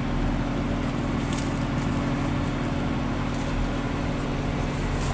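Sugarcane harvester's diesel engine running steadily, an even low hum with a faint click or two.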